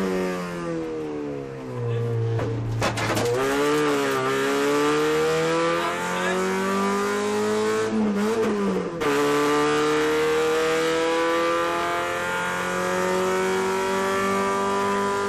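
Opel Astra GSi rally car's engine heard from inside the cabin, driven hard: the revs fall over the first two seconds, then climb again through the gears, with gear changes breaking the pitch about three seconds in and again about nine seconds in, followed by a long steady rise.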